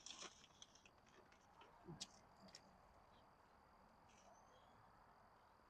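Near silence outdoors, with a faint steady high-pitched insect trill and a few soft clicks early on and about two seconds in.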